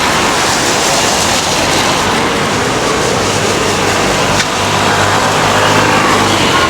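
Busy city street ambience: a steady wash of traffic and crowd noise, with a motor vehicle's engine hum rising out of it in the second half.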